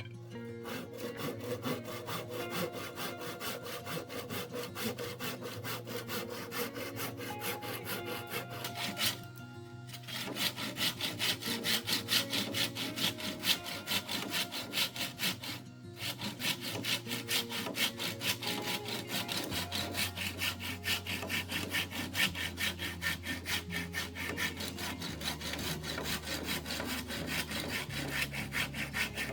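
Saw cutting through wood in quick, even strokes, stopping briefly about nine seconds in and again about sixteen seconds in, over faint background music.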